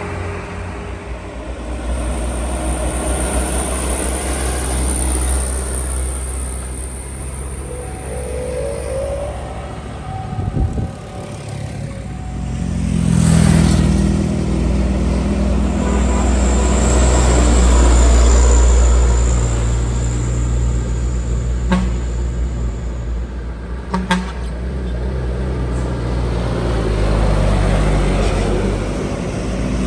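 Heavy diesel trucks passing one after another on a steep grade, their engines labouring with a deep, steady rumble that swells as each vehicle comes close and fades as it goes by. A high whine comes and goes, and two short sharp sounds come near the end.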